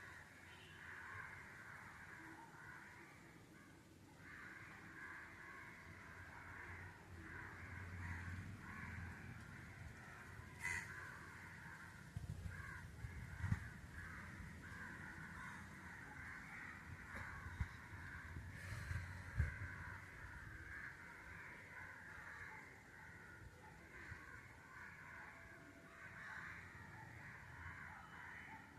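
Many crows cawing at once in a continuous, overlapping chorus, with a few low thumps about halfway through.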